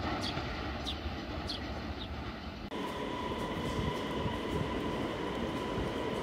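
Trains rumbling through a railway station: first a freight train approaching, with a few high chirps over it. About two and a half seconds in the sound cuts to a red electric passenger train moving at a platform, a steady whine over the rumble.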